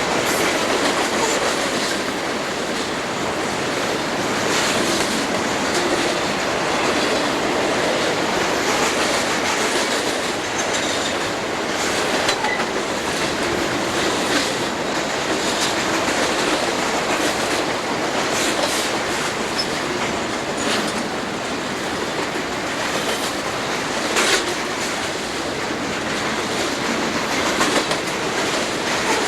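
Southern Pacific freight train rolling steadily past, its car wheels clicking over rail joints at irregular intervals.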